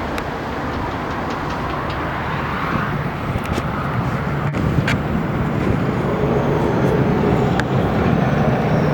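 Strong wind buffeting the microphone: a steady low rumble that swells a little in the second half, with a few faint ticks.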